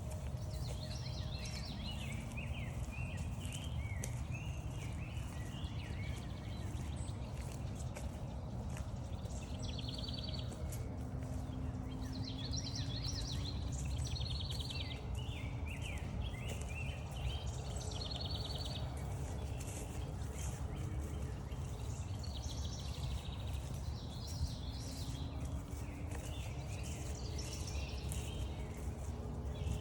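Several wild birds singing, their short repeated phrases overlapping throughout, over a steady low rumble and the footsteps of someone walking.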